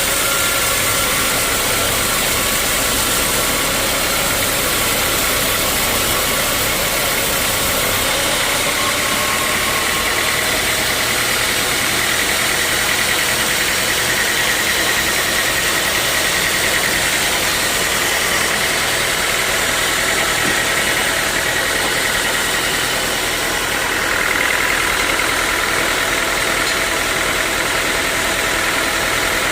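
Sawmill machinery running steadily: a constant mechanical noise with a faint high whine.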